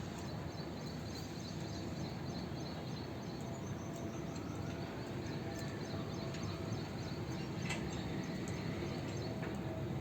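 A steady low rumbling background noise, with faint scattered budgerigar chirps and small clicks above it.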